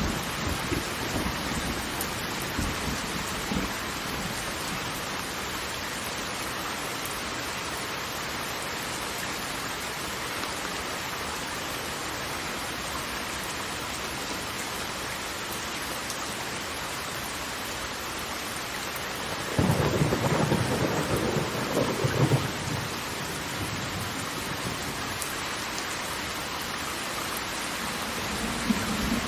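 Steady rushing water, an even hiss like heavy rain or a waterfall. About twenty seconds in, a deep rumble swells for roughly three seconds.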